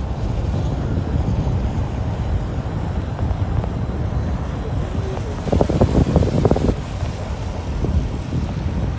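Wind blowing across the microphone, a continuous low rumble with a stronger gust about halfway through and a short click at the very end.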